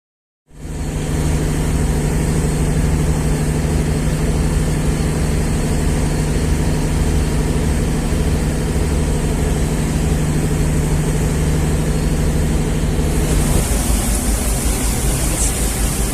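A boat's engine running steadily, cutting in abruptly. About thirteen seconds in its steady hum breaks off and a high hiss joins.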